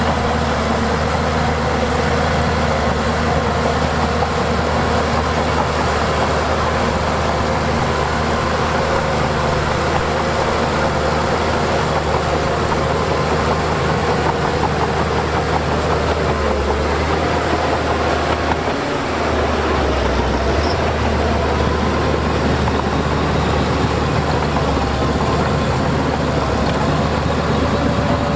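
Heavy diesel engine of earthmoving machinery running steadily and loudly, its pitch wavering slightly as the load changes.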